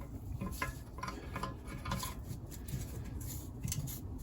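Light, irregular metallic clicks and taps from parts of a split BMW R1200GS engine being handled and moved about on the crankcase.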